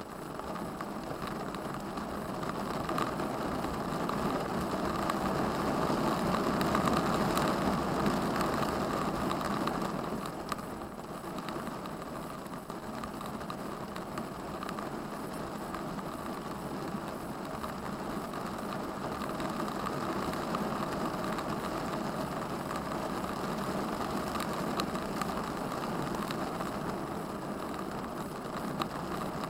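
Vehicle engine and road noise during a drive, a steady rumble that swells for a few seconds and eases off about ten seconds in.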